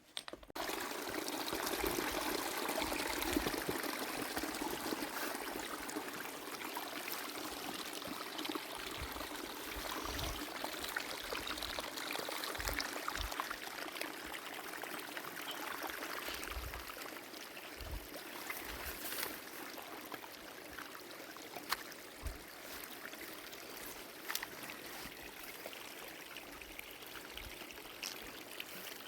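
Spring water running steadily, an even rushing flow that starts abruptly at the beginning.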